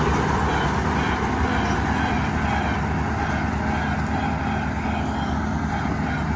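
A motor vehicle's engine running steadily with a low hum, over a dense rushing noise, easing slightly in loudness.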